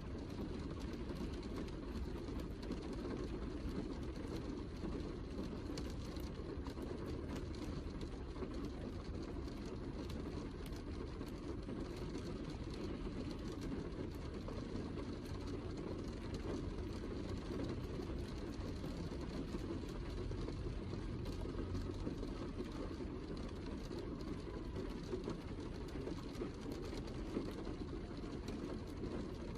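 Heavy rain falling steadily: an even, unbroken noise with most of its weight in a low rumble.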